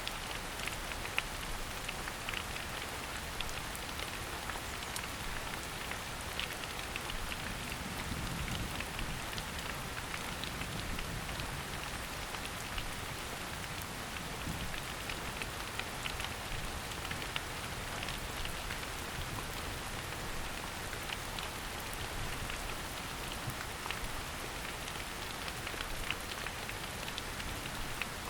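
Steady rain falling in a forest, a continuous patter with many small drip ticks on leaves.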